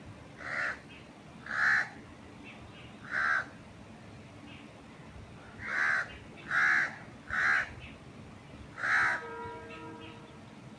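A bird calling loudly seven times, three calls and then four, each short and harsh, with faint chirps from other birds between them.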